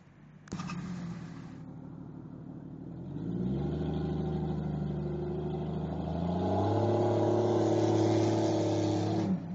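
A 4x4's engine revving hard. It climbs in pitch about three seconds in and again past six seconds, holds at high revs, and drops briefly near the end.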